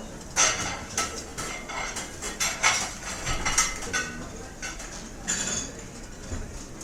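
Cutlery and dishes clinking and clattering in a restaurant: a busy run of sharp metal-on-china clinks, thinning out near the end, over a steady low room hubbub.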